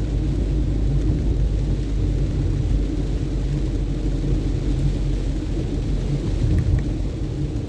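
Steady low rumble of a car driving on a wet road in the rain: engine and tyre noise, with a faint hiss of rain above it.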